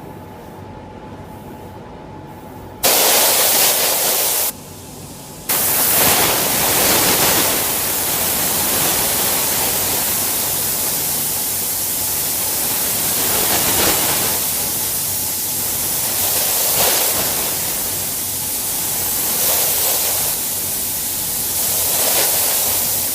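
Pneumatic paint spray gun hissing as it sprays. It starts about three seconds in, stops briefly a second later, then runs on, swelling and easing with each pass.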